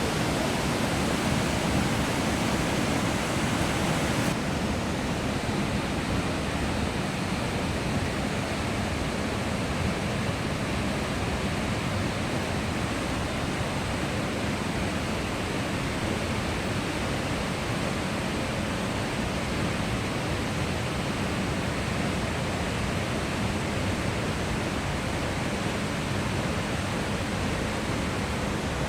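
Kozjak waterfall: a steady rush of falling water, slightly duller from about four seconds in.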